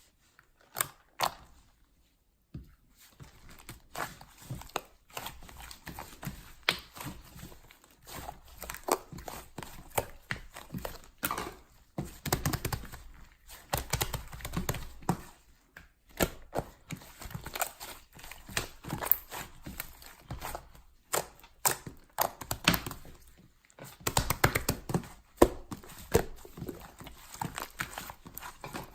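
Close, irregular taps, clicks and crinkling from objects being handled, with a short pause about two seconds in.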